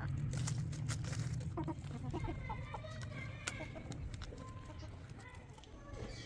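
Chickens clucking in short calls, over a low steady rumble, with a few sharp clicks in the first second.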